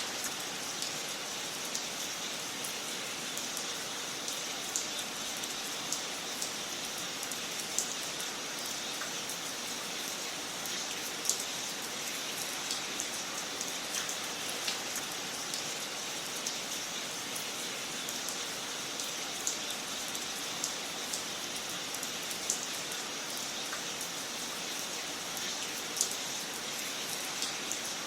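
Wood fire crackling in a fireplace: a steady hiss with frequent small snaps and a louder pop every few seconds.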